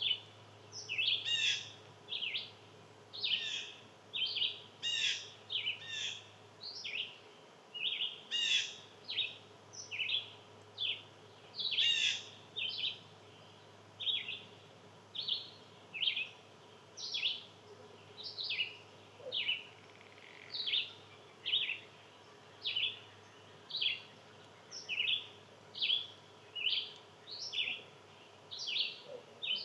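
A songbird calling over and over: short, sharp, high downslurred calls, about one a second, sometimes in close pairs.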